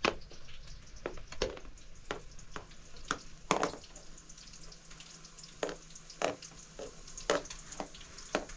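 Irregular crackling and popping over a faint hiss, a few sharp pops a second at uneven spacing.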